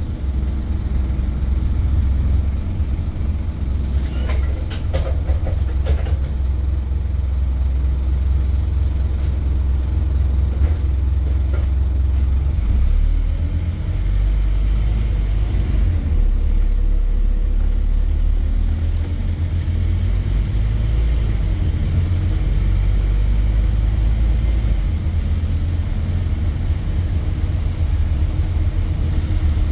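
Scania N230 bus's five-cylinder diesel engine running as the bus drives, a steady low rumble with its pitch rising around two-thirds of the way through as it pulls away. A few short sharp knocks or rattles come about four to six seconds in and again near the middle.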